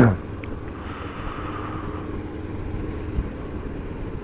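Kawasaki GPZ500's parallel-twin engine running steadily at low revs as the bike moves slowly through traffic.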